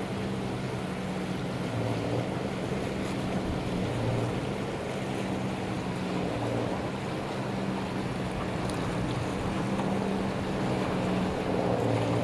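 A container ship's machinery hums steadily at a low pitch that wavers slightly, under strong wind on the microphone.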